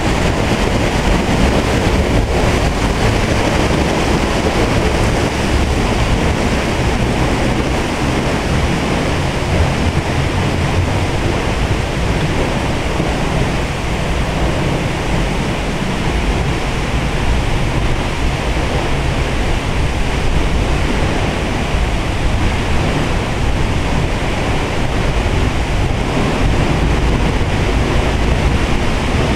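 Waterfall in rainy-season flow: a loud, steady rush of falling water, heaviest in the low rumble.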